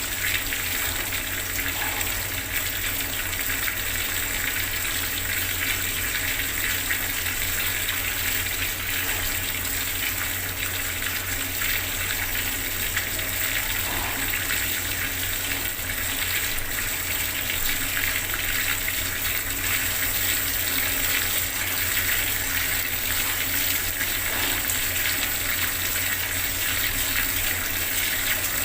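Water running steadily from a bathroom tap, a continuous splashing gush.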